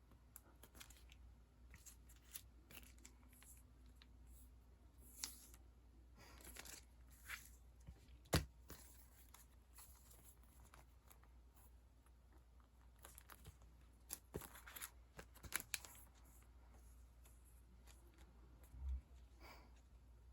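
Faint handling of sticker sheets and their plastic packaging: quiet rustling and crinkling with scattered taps, a sharper click about eight seconds in and a soft thump near the end.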